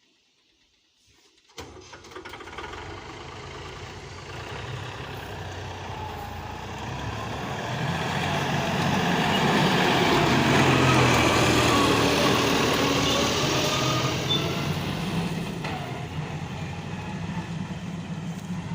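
Diesel engine of a heavy vehicle running. It cuts in abruptly about one and a half seconds in, grows louder to a peak around the middle, then eases off somewhat.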